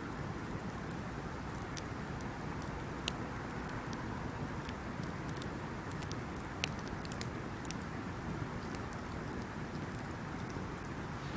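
Wood bonfire burning: a steady rushing hiss under scattered sharp crackles, with a couple of louder pops.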